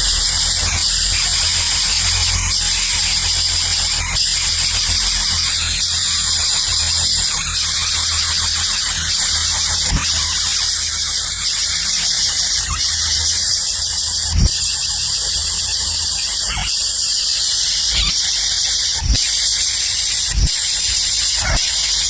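Loud, continuous high-pitched shrilling with occasional low thumps, more of them in the second half.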